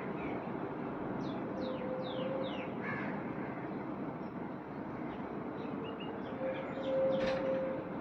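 Birds calling over a steady outdoor background rumble: a run of quick falling chirps a second or two in, and a louder call near the end.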